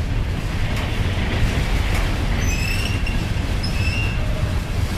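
Freight train cars rolling past, a steady rumble of steel wheels on rail, with two short, high-pitched wheel squeals, one about halfway through and one a second later.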